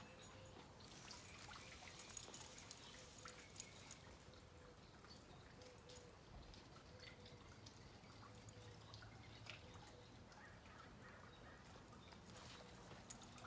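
Near silence: faint background with a few scattered small ticks and clicks.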